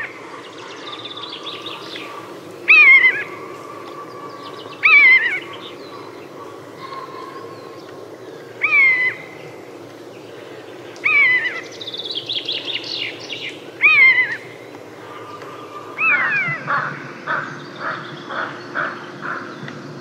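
Bird calls: six loud calls, each falling in pitch, every two to four seconds, with quieter chirping between them and a quick run of short repeated calls near the end.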